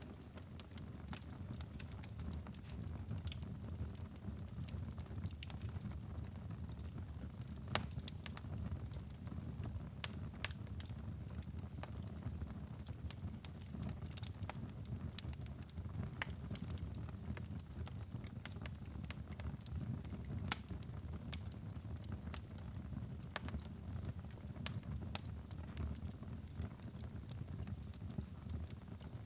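Wood fire burning in a fireplace: a steady low rumble of flames with frequent irregular crackles and pops, a few of them louder.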